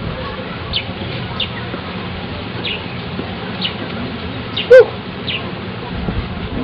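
Short, high, falling bird chirps repeating about once a second over a steady background hiss, with one brief loud call a little under five seconds in.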